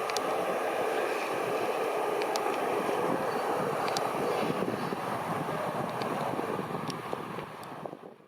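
A train running on the rails: a steady rumble with light clicks from the wheels, fading out over the last second.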